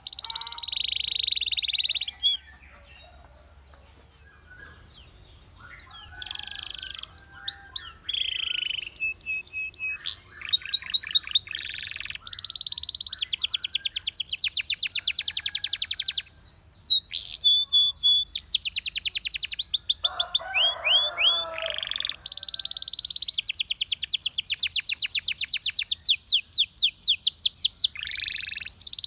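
Canary singing: phrase after phrase of fast trills of rapidly repeated high notes, with a pause of about three seconds near the start.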